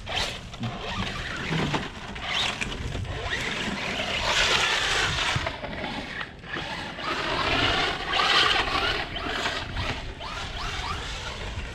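Electric Arrma RC trucks driving over dirt: brushless motors and drivetrains whining as they rev, with tyres churning the ground. The whine swells up and falls back twice, about four seconds in and again about eight seconds in.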